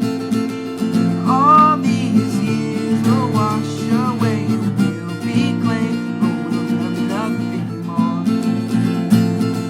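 Acoustic guitar strummed steadily in a chord pattern, with a voice singing a melody over it.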